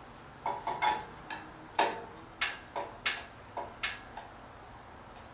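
Irregular metallic clicks and clinks, about nine in three and a half seconds, some with a short ring, as an engine hanging from a shop engine hoist is lowered into the car's engine bay.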